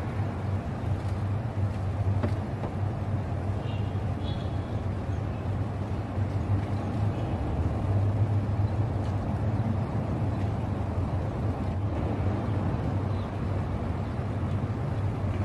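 A car engine idling steadily, the donor car running while jumper cables are connected for a jump start.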